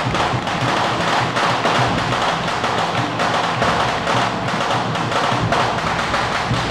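Temple-procession percussion music: drums and other struck percussion playing a dense, continuous beat.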